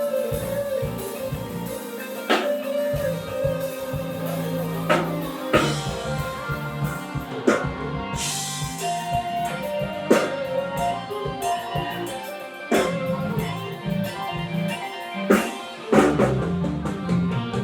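Live soul band playing an instrumental passage with guitar, bass and drum kit, with a heavy drum accent every couple of seconds.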